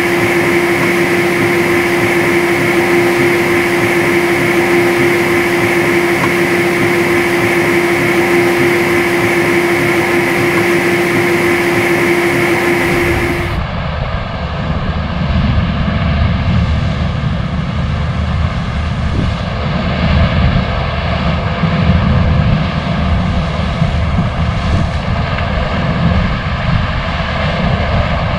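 Harvesting machinery running steadily, with a constant whine over the engine noise. About halfway through, the sound changes abruptly to a deeper, unsteady rumble of heavy machinery.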